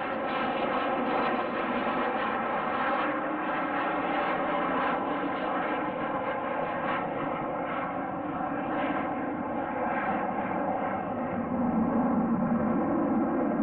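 Aircraft engines running with a steady drone made of many tones, growing a little louder near the end.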